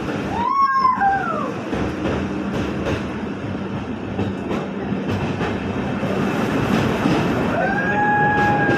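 Passenger train running: a steady rumble and rattle of the moving coach with a low hum. Two drawn-out, voice-like cries that rise and then fall in pitch are heard, one about half a second in and a longer one near the end.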